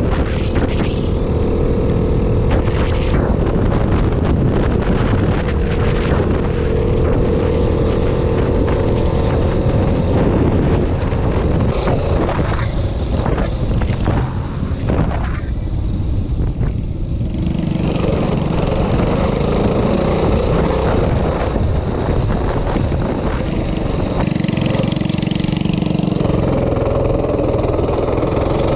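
Minibike's small engine running while being ridden, its pitch rising and falling with the throttle.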